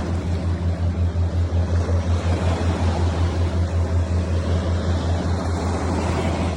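A motor's low, steady drone that pulses several times a second, with a haze of wind or water noise over it.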